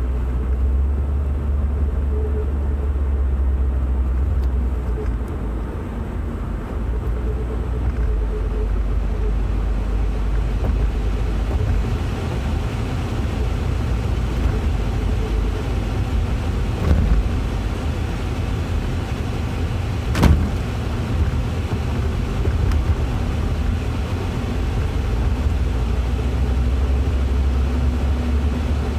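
Car on the move, a steady low rumble of engine and road noise, with a sharp knock about twenty seconds in and a softer one a few seconds before it.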